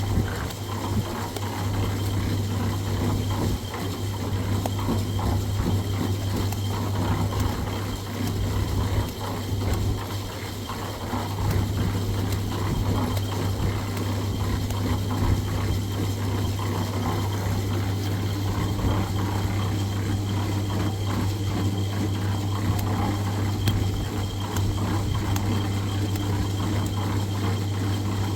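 A machine running steadily, with a constant low hum and a fast, continuous rattle.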